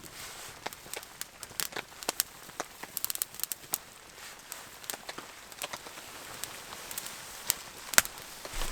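Small campfire of birch bark and kindling crackling as it catches, with sharp, irregular pops, the loudest near the end.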